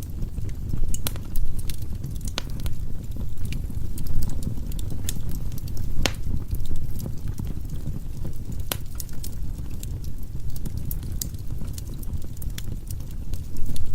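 Wood fire burning in a fireplace: a steady low rumble with irregular crackles and sharp pops from the burning logs.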